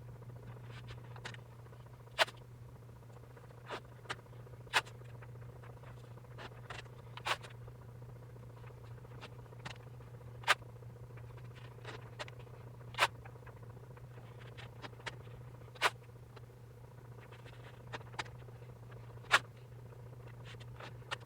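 Painter's tape being pulled off the roll, torn and pressed down around a table edge: scattered short, sharp ticks and snaps every second or two over a steady low hum.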